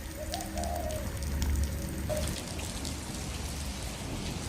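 Heavy rain falling steadily, with scattered drops hitting close by.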